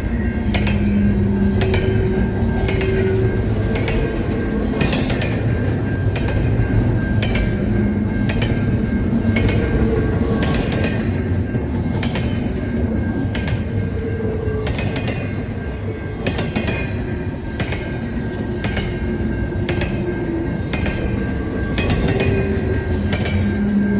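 Train passing on the CN Bala Subdivision: a continuous loud rail rumble with wheels clicking over the rail joints at a steady rhythm, one to two clicks a second.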